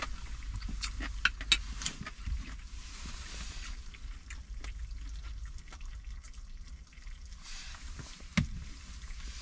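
Close-up sounds of someone eating chicken: irregular small clicks and wet mouth sounds, over a steady low hum.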